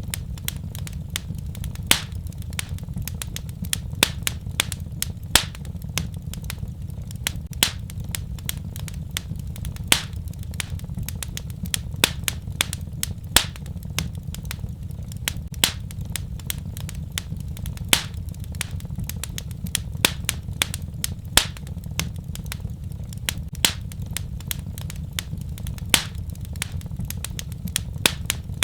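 Wood fire crackling in a fireplace: irregular sharp pops and snaps, a few louder ones every second or two, over a steady low rumble of the flames.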